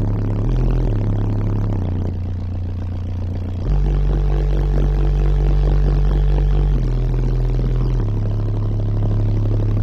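Bass-heavy music played loud through Resilient Sounds Onyx 15-inch car subwoofers driven by a Taramps MD12000.1 amplifier: long, deep bass notes that step to a new pitch every second or two.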